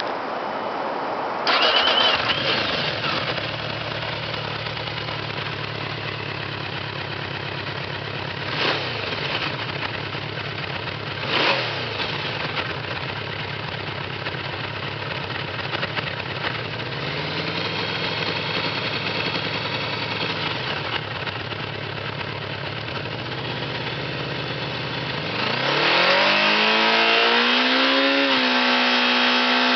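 Yamaha VMAX V4 engine through a MAXTUNE-modified muffler, with a deep, menacing exhaust note. It idles with a few short throttle blips and one longer rev, then near the end revs up smoothly and holds steady at high revs.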